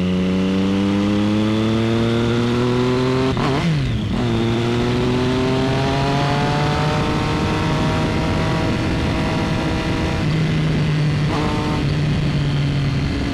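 Motorcycle engine accelerating, its note climbing steadily. About three and a half seconds in, the pitch drops sharply and picks up again, then keeps rising before levelling off into a steady run.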